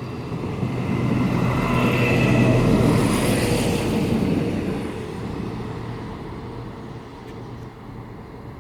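Class 170 Turbostar diesel multiple unit passing through the station, its underfloor diesel engines and wheels growing louder to a peak about three seconds in, then fading away.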